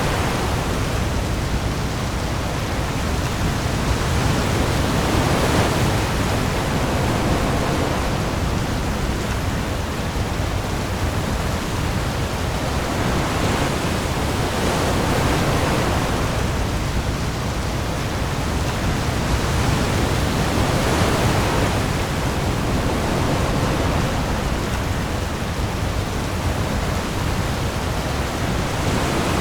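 Heavy rain falling on the open sea with waves, a steady dense rushing that swells and eases every five seconds or so, over a deep low rumble.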